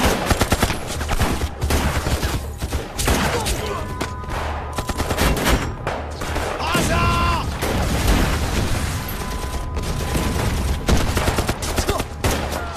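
Battle gunfire: dense, rapid overlapping shots from many guns, with a voice shouting about seven seconds in and a thin steady high tone underneath.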